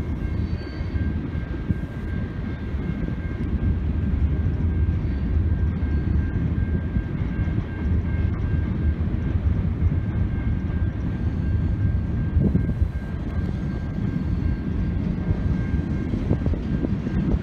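Freight cars rolling past on the rails: a steady, continuous rumble of wheels and cars, with a faint steady high-pitched tone throughout.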